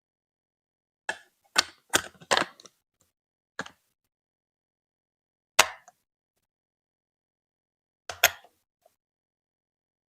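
Hard plastic clacks of Lego Duplo pieces being handled and set down: single sharp knocks, with a quick run of several about two seconds in and a double knock near the end.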